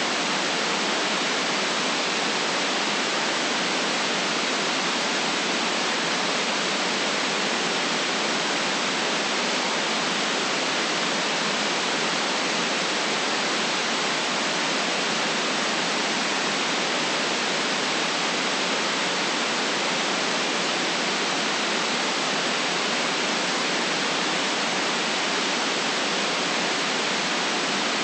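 Continuous synthetic white noise: a steady, unchanging hiss with no rhythm or events, cut off below the low bass and above the top treble.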